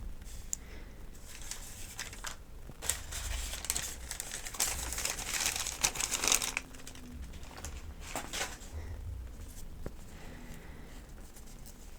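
Paper medication guides crinkling and rustling as they are handled, in scattered crackles and clicks with a denser, louder bout of rustling around the middle.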